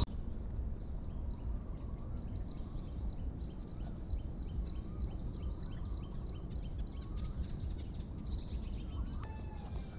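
Outdoor ambience of birds calling: one bird repeats a short high chirp about three times a second, with a few fainter, lower whistles, over a steady low rumble of background noise.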